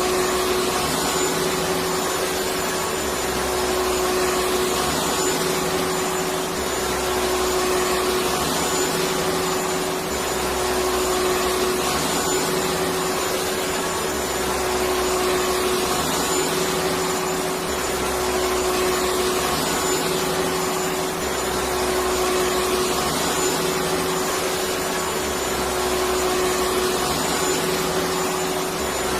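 Electric vacuum cleaner running steadily: a constant rush of air with a steady motor tone, and a faint low throb that comes and goes every three to four seconds.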